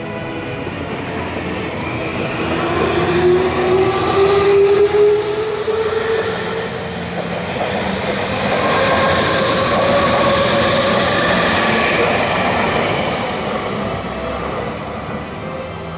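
Electric commuter train running past, its wheels and running gear making a steady noise while the traction motors whine, the whine rising in pitch over the first few seconds as the train picks up speed. A second, higher whine swells and fades around the middle of the clip.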